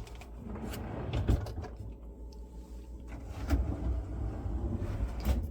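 Food packages and containers being moved around on pantry shelves: rustling, light clicks and a few dull knocks.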